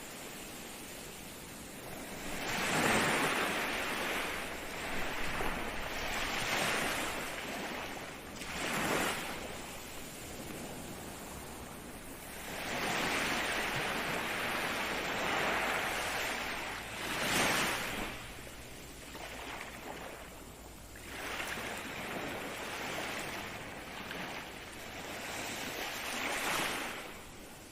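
Ocean waves breaking and washing in surf, the rush of water swelling and fading every few seconds, with some strong surges.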